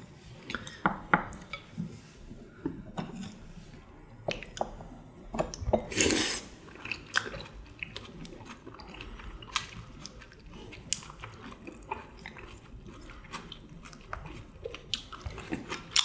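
Close-miked eating: people chewing rice-cake tteokbokki with wet mouth sounds, and short clicks of chopsticks against porcelain bowls, with a louder burst of noise about six seconds in.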